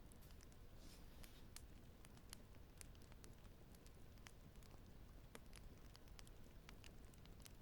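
Faint fireplace crackling: irregular small pops and snaps, several a second, over a low steady rumble.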